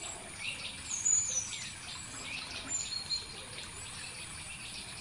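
Birds chirping in short, scattered calls, one a brief falling whistle about a second in, over a steady high-pitched whine.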